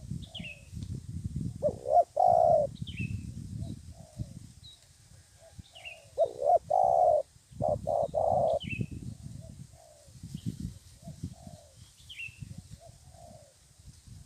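Spotted dove (tekukur) cooing in phrases, loudest about two seconds in and again from about six to nine seconds, with softer coos afterwards. A smaller bird's short, falling high chirps repeat every second or two over a low rumble.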